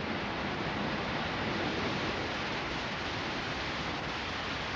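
Heavy rain pouring down in a thunderstorm, a steady even hiss.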